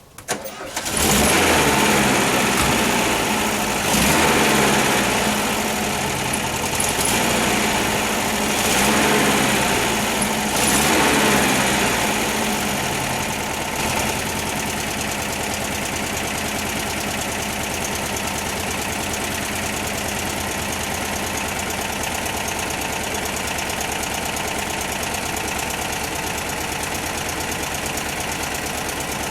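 1968 Volkswagen Type 3 Fastback's air-cooled engine firing up from a cold start with no chokes on its Dell'Orto carburetors. It is revved in about five swells over the first dozen seconds, then settles into a steady idle.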